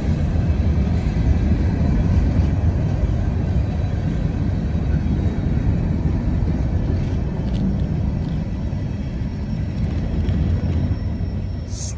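Covered hopper cars of a CSX freight train rolling past, with a steady low rumble of steel wheels on the rails that eases slightly near the end.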